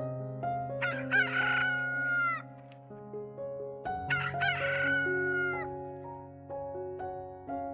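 A rooster crowing twice, each crow a drawn-out call lasting about a second and a half, over background music.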